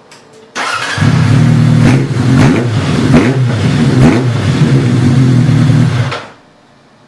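Kawasaki Zephyr 1100's air-cooled inline-four through an aftermarket KERKER-type muffler, coming on suddenly about half a second in, running loudly with several quick throttle blips, then cut off about six seconds in.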